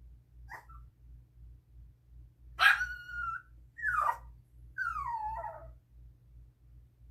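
A Chihuahua giving high-pitched screams that sound like a kid screaming. A short faint cry comes first, then three loud drawn-out cries: the first and loudest starts sharply, and the next two fall in pitch.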